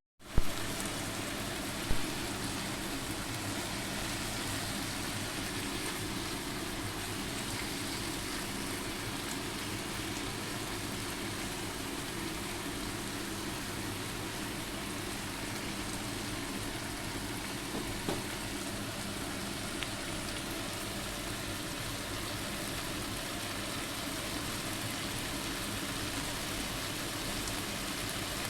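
Food sizzling steadily as it fries in a pan, with a few sharp clicks, one about two seconds in.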